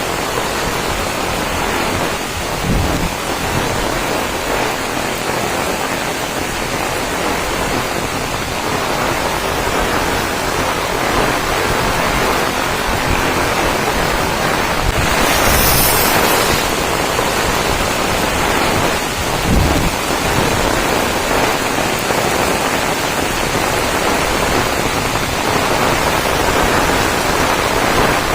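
Rain-swollen waterfall: a steady, loud rush of falling water.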